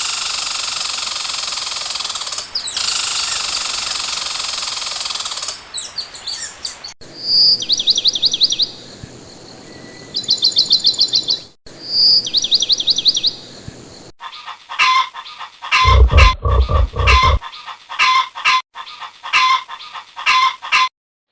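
A run of separate animal sound clips. A steady loud noise comes first, then a small bird sings three quick high trilled phrases, then a run of short, sharp calls follows.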